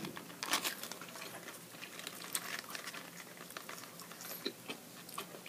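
A person chewing a bite of burger close to the microphone: scattered soft, wet mouth clicks, with light crinkling of the foil wrapper.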